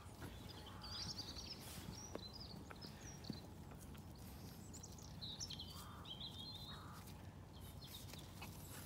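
Faint birdsong: warbling, twittering phrases, once from about a second in and again around five seconds, over a low steady outdoor rumble with a few soft clicks.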